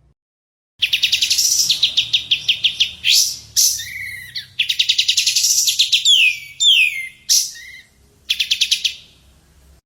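A songbird singing in phrases: fast trills of rapidly repeated high notes alternating with sharp downward-sliding whistles, with short breaks between phrases. A faint low hum runs underneath.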